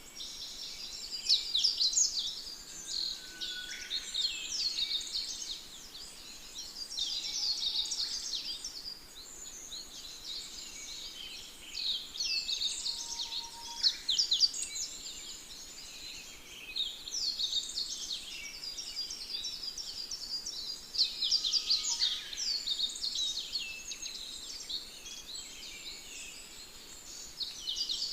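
Chorus of several songbirds singing at once: overlapping fast, high chirps and trills that go on without a break, with louder bursts of song every few seconds and an occasional lower whistled note.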